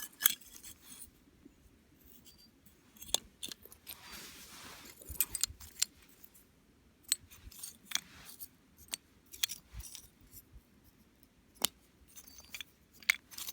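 Small hard objects clicking and clinking at irregular intervals, about a dozen sharp ticks, with a short scrape about four seconds in.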